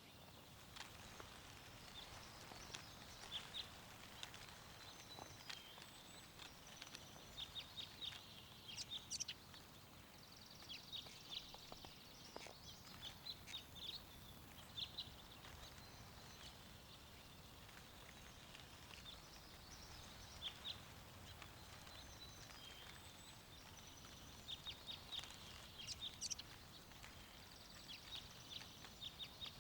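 Small birds chirping faintly in scattered clusters of short, high calls, over a soft, steady wind.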